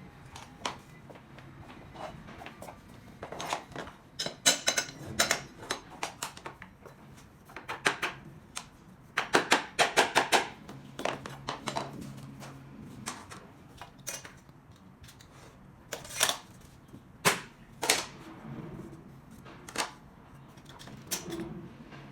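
Sharp taps and knocks from work on SPC stone-plastic floor planks: irregular, some in quick runs of several strikes, with a few single louder strikes in the second half.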